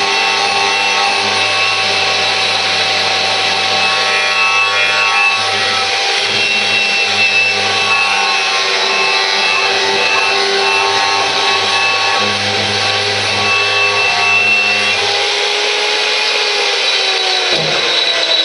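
Handheld electric power tool running under load, stripping paint off a metal bracket: a steady, loud motor whine with a rubbing, scraping noise, its pitch wavering with the pressure and falling away near the end.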